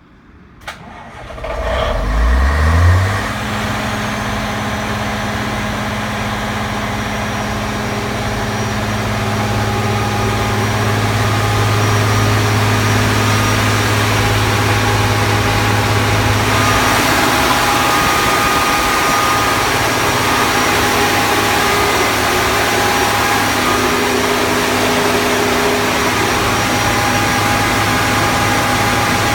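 Scania diesel engine of a 190 kVA generator set starting: a click, a short crank as the pitch climbs, then it catches and settles into a steady run about three seconds in. It keeps running evenly, growing fuller and louder from about halfway through.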